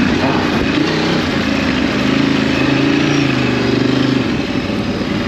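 Ducati DesertX's 937 cc V-twin engine running on the move. The revs dip and pick up again at the start, hold steady for a couple of seconds, then ease off near the end, over a steady rush of wind noise.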